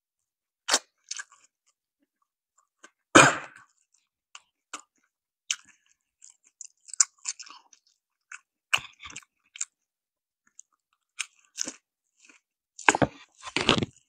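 Close-miked chewing and crunching of crispy fried chicken with pickled radish, in irregular bites with pauses between them. A few louder knocks come near the end.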